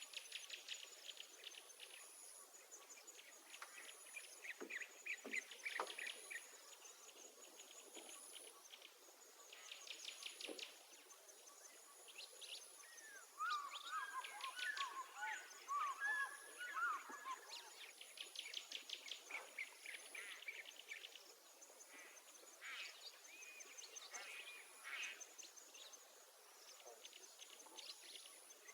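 Small birds chirping and trilling, over a thin, high insect buzz that pulses about once a second. A louder tangle of warbled bird calls comes about halfway through.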